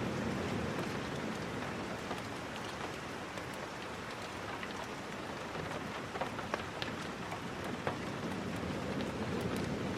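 Steady rain falling, a continuous even hiss, with scattered sharp ticks that are busiest between about six and eight seconds in.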